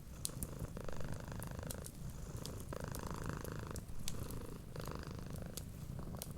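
Domestic cat purring steadily, its purr changing about once a second as it breathes in and out, over scattered sharp pops and crackles of a wood fire.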